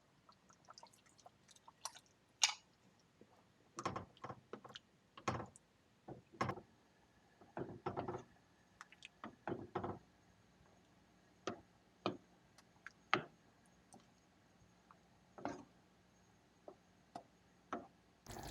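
Irregular light clicks and knocks, a dozen or so spread through the stretch and spaced unevenly.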